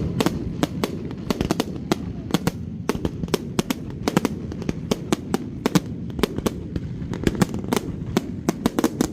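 Fireworks display: a rapid, irregular series of sharp bangs and cracks, several a second, over a steady low rumble.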